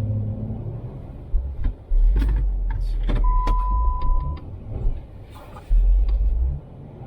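Off-road truck running on a snowy trail: a low engine rumble that surges and drops unevenly, with scattered knocks and clatter. A single steady electronic beep sounds a little over three seconds in and lasts about a second.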